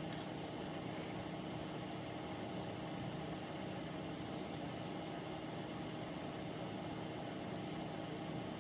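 A steady mechanical hum runs throughout, with a few very faint light ticks near the start and about halfway through.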